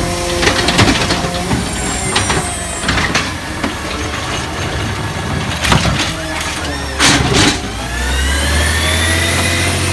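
Garbage truck at work: scattered clanks and knocks, a short loud burst of noise about seven seconds in, then the engine rising steadily in pitch as the truck accelerates away.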